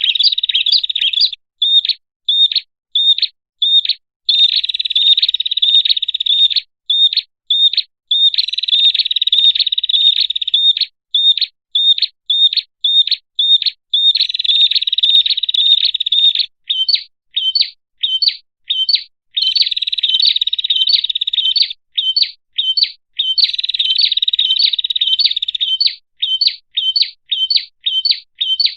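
Prenjak (prinia) lure-call recording: a clean, loud run of high chirping song. Spaced single notes, two or three a second, alternate with stretches of rapid trilling of a few seconds each.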